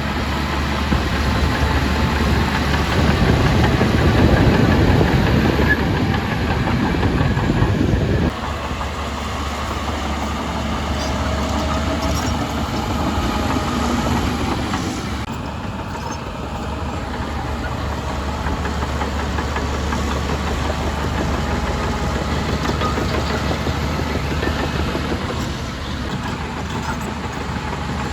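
Heavy diesel engine of earthmoving machinery running. It is louder and rougher for the first eight seconds, then drops off abruptly to a steadier run.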